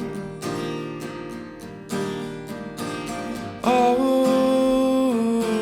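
Acoustic guitar strummed in a slow, even rhythm, with a long held sung note coming in about two-thirds of the way through.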